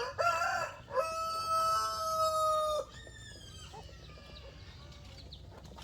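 Rooster crowing once: a short opening note, then a long held note of about two seconds that falls away at the end.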